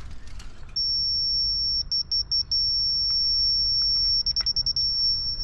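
Rotary laser level's handheld receiver sounding a steady high-pitched tone that starts about a second in, twice broken into quick runs of beeps: the receiver signalling where it sits against the laser beam while the grade is checked.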